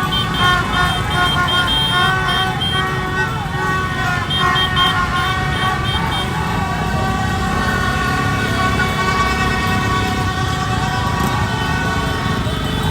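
Street celebration traffic: many motorbike and car engines running, horns honking in short repeated toots, and voices shouting over the din.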